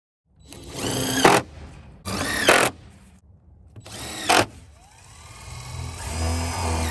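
Power drill running in short bursts, its motor whining up and down in pitch, three quick runs that each end sharply, then a longer run near the end.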